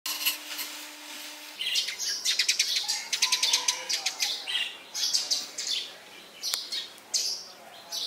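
Small birds chirping, with quick runs of rapid high trill notes and single chirps, several calls in turn.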